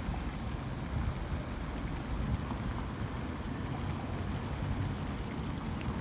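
Wind buffeting the microphone: a steady low rumble with no clear calls on top.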